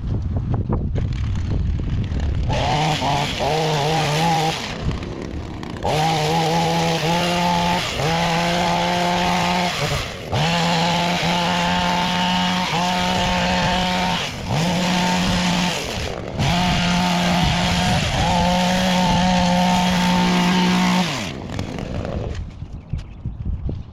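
Small two-stroke engine of a handheld gas-powered garden tool running at high revs in bursts a second or two long, with brief let-offs between them. It starts a couple of seconds in and winds down with a falling pitch near the end.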